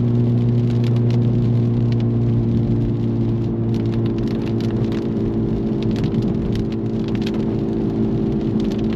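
Honda Civic Type R's turbocharged four-cylinder engine holding a steady drone at cruising speed, with tyre and road noise from a wet road, heard from inside the cabin. Scattered faint ticks sound through it.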